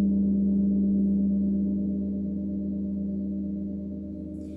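A deep meditation instrument, struck once just before, rings on in a steady low tone with deeper hum beneath it, slowly fading. It is one of the lower 'bass' set of sound bowls and gongs.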